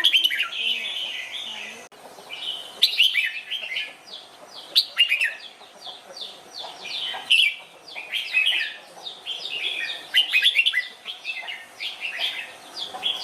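Red-whiskered bulbuls singing: short, quick phrases of bright chirping notes, one after another with brief pauses between them.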